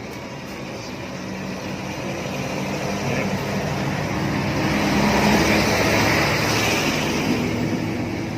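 A motor vehicle's engine passing by, growing louder to a peak about five to six seconds in and then fading.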